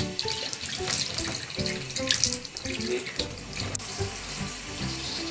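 Handheld shower running, its spray pouring onto a wet cat's fur and splashing into a bathroom sink.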